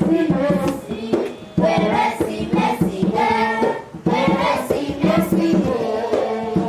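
A choir singing a Yoruba Christmas song with musical accompaniment, in phrases with short breaks between them.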